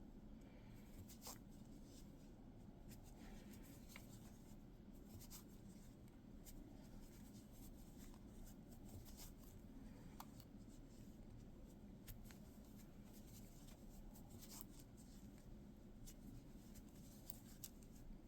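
Faint, irregular soft ticks and rustles of a crochet hook working yarn in single crochet stitches, over a low room hum.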